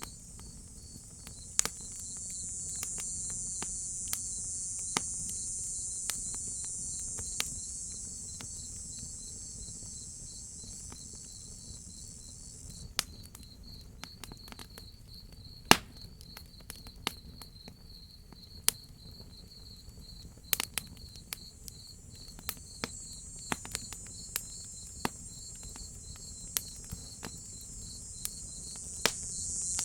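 Crickets chirping in a steady, fast pulsing trill, with a higher insect buzz that swells for the first dozen seconds and rises again near the end. Over it a wood fire crackles with sharp, irregular pops.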